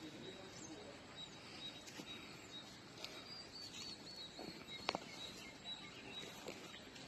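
Faint outdoor ambience with small birds chirping: a run of quick high chirps in the middle, and one sharp click about five seconds in.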